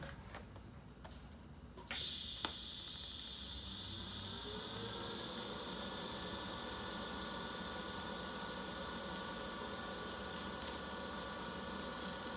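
TIG welding arc on a cast iron exhaust manifold being joined to a stainless steel V-band. The arc strikes with a sharp crack about two seconds in, then runs as a steady buzzing hiss with a faint whine that rises a little and holds.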